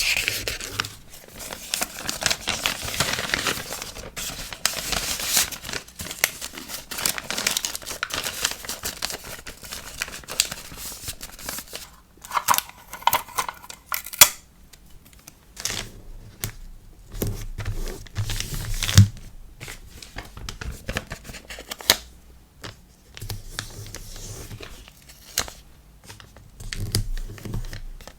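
Hands packing a sticker order: paper and plastic packaging crinkling and tearing, with many sharp clicks and snaps. The loudest snaps come about halfway through and again a few seconds later.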